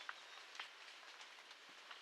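Near silence: the faint hiss of a field recording with scattered soft clicks and no bird calling.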